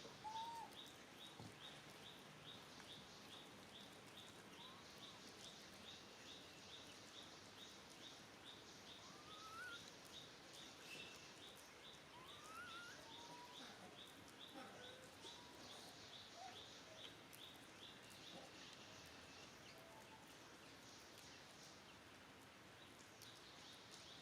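Faint outdoor animal ambience: a high-pitched chirp repeating about three times a second, with a few short, scattered rising calls.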